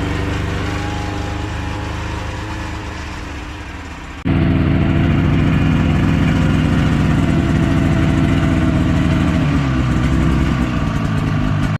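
Motor vehicle engine running while travelling, a steady drone with clear engine tones. About four seconds in it jumps abruptly to a louder, deeper run.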